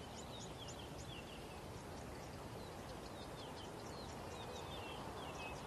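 Faint bird chirping: runs of quick, short, high chirps, many sliding down in pitch, over a steady low hiss of background ambience.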